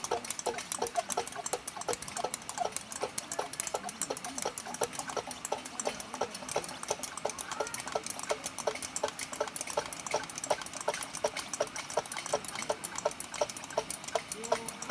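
Hand pump of a kerosene pressure lantern worked in steady, even strokes, about three a second, pressurising the fuel tank.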